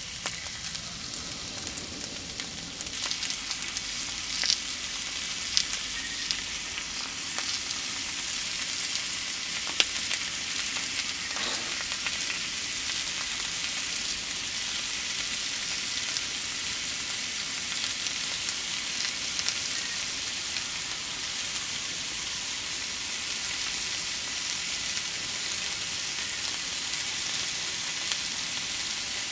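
Food frying in a pan with a steady sizzle, with a few short clicks in the first several seconds.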